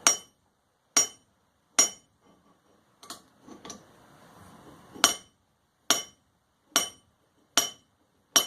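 Small pieces of forged steel tapped and clinked together, about ten light strikes roughly a second apart, each with a short high metallic ring.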